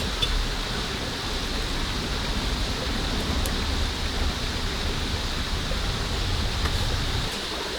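Steady rain, an even hiss, with a low rumble underneath that drops away near the end.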